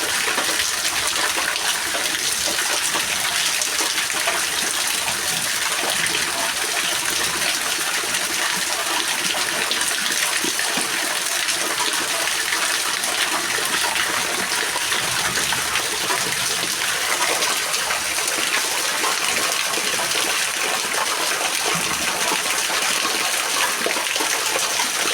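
Steady heavy rain, an even hiss of falling drops that holds at the same level throughout.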